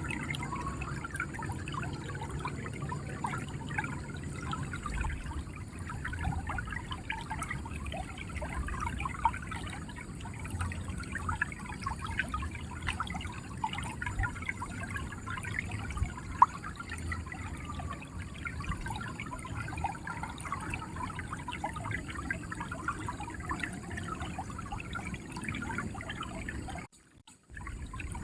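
River water running, a steady gurgling, trickling flow. It cuts out almost to silence for under a second near the end.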